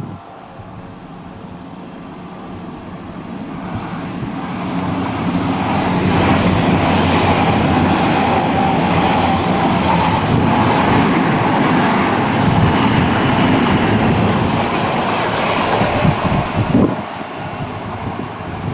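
Odakyu 8000 series and 3000 series electric trains, coupled together, passing through a station without stopping. The rumble of wheels and running gear builds over the first few seconds and holds loud for about ten seconds. It drops away with a few sharp wheel clacks near the end.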